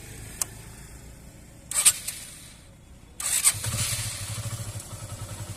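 Hero Super Splendor motorcycle's single-cylinder engine being started: a short loud burst about two seconds in, then a moment later it cranks, catches and settles into an even pulsing idle.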